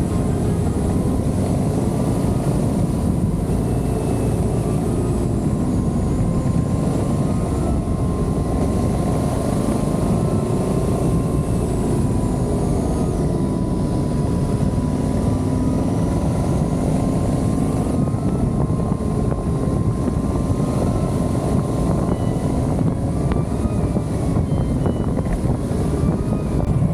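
Adventure motorcycle engine running under way, its pitch rising and falling with the throttle, over steady wind and road noise.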